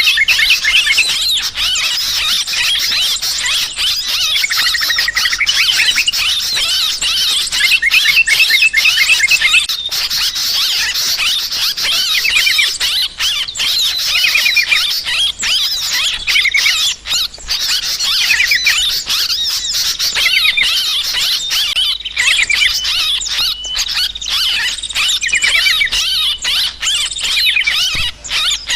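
Yellow-vented bulbuls chattering in a dense, unbroken, agitated chorus of rapid, wavering high notes, the alarm-like 'ribut' calling used as a lure to draw birds in.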